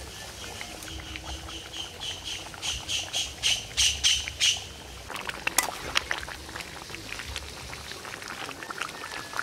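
A bird calling a quick series of short repeated notes, about three a second, growing louder for the first few seconds and then stopping. Afterwards scattered sharp clicks and scrapes, over a low steady rumble.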